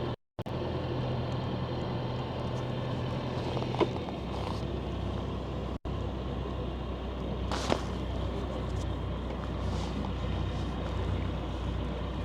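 A sailing boat's inboard diesel engine running at low revs while manoeuvring into a marina berth, with a steady hum whose note drops lower about four seconds in as the throttle or gear is changed. A couple of light knocks are heard.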